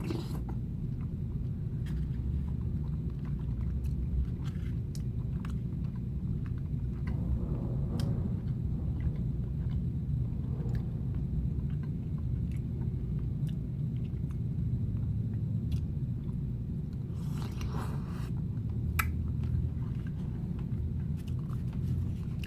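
A person chewing and eating chicken soup with dumplings, with scattered small clicks, over a steady low rumble.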